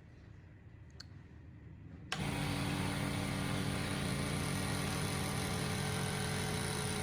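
Rebuilt 2 HP, 30-litre air compressor starting up: a click about a second in, then the motor and pump come on abruptly about two seconds in and run steadily.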